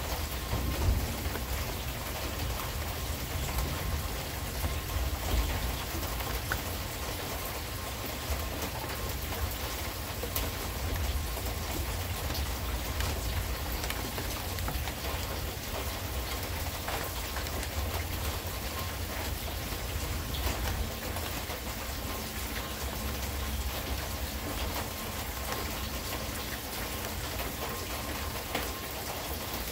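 Steady rain falling, with many small drop impacts ticking through an even hiss, over a constant low rumble.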